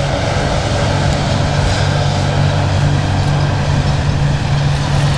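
Commuter train with two ALP-45DP dual-mode locomotives running by: a loud, steady low hum from the locomotives over a continuous rumble.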